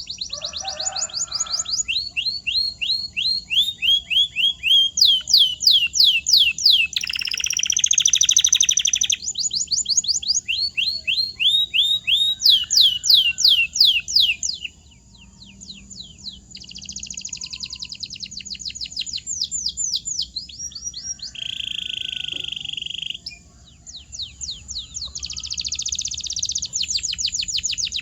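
Domestic canary singing a continuous song of repeated phrases: runs of quick downward-sweeping notes alternate with rapid, buzzing trills. The song softens briefly about halfway through.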